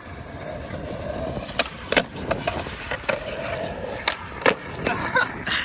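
Skateboard rolling on concrete, with the metal trucks grinding through a 50-50 and several sharp clacks of the board popping and landing; the trick is landed.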